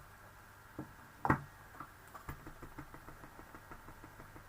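Craft supplies being handled on a table while a stamp is sought: two light knocks, the second louder, then a quick run of small clicks, about six a second.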